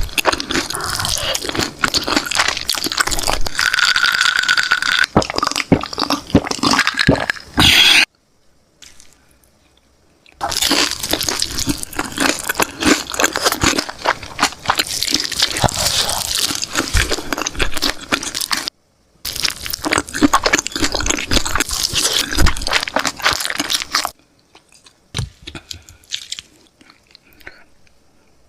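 Eating sounds close to the microphone: biting and chewing chicken, dense crackling runs broken by two short silences and fading to faint sounds near the end.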